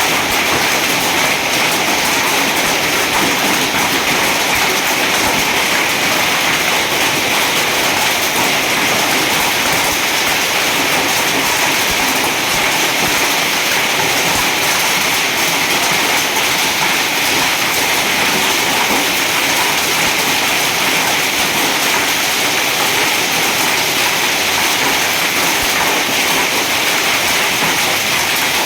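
Heavy rain pouring steadily in a thunderstorm, a loud, even rushing hiss with no thunderclaps.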